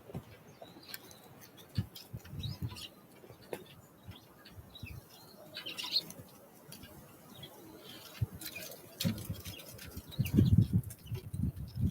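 Small wild songbirds giving scattered short, high chirps, with sharp taps and clicks between them. Near the end comes a loud burst of low fluttering thumps, the loudest sound.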